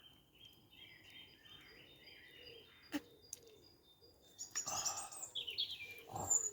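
Small birds singing in a forest, a run of quick high notes. There is a sharp click about three seconds in and a couple of short louder noises near the end.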